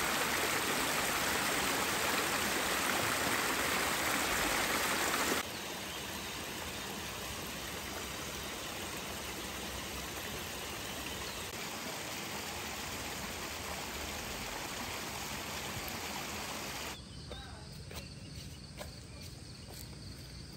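Steady rushing of running water from a small rock-lined stream. It drops suddenly to a quieter steady outdoor hiss about five seconds in, and falls quieter again near the end, with a few faint ticks.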